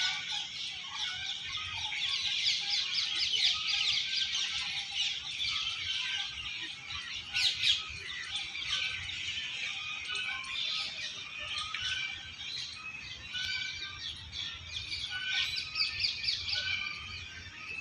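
Many small birds chirping and calling at once, a dense, continuous chorus of short high notes, with one louder sharp call about seven and a half seconds in.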